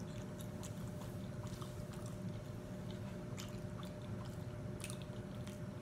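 Close-miked chewing of a soft corn tamale: scattered small wet mouth clicks and smacks over a steady low hum.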